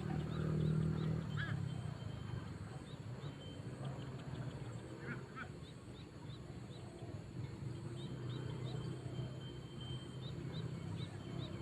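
Spotted doves cooing, low and repeated, over short high chirps.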